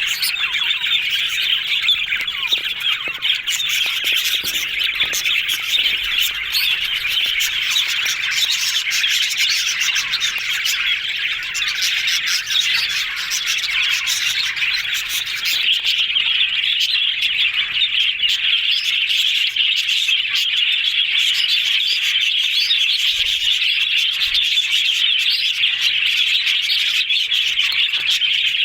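Several budgerigars chattering: a dense, continuous mix of chirps, warbles and squawks.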